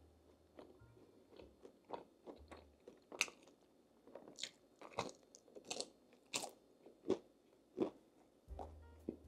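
Close-up chewing of crispy food: a run of irregular crunches, growing louder from about three seconds in, at roughly one or two bites a second.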